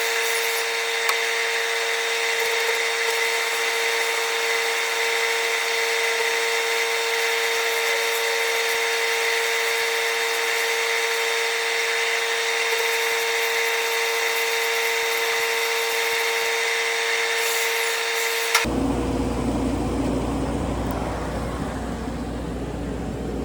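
Angle grinder with a wire wheel running steadily at full speed, a high steady whine with hiss, cleaning up the welds; it cuts off abruptly about 18 seconds in, leaving a low steady engine hum.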